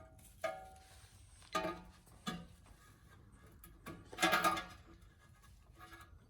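Steel cotter pins being bent over with a hand tool: a few sharp metallic clicks and clinks with brief ringing, the loudest a cluster about four seconds in.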